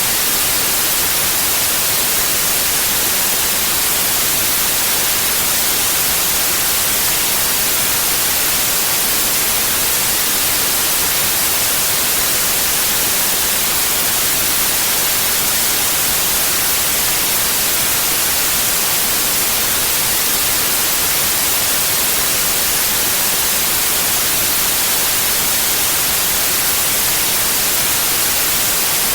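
Steady white noise: an even, unbroken hiss, strongest in the treble, holding one level throughout.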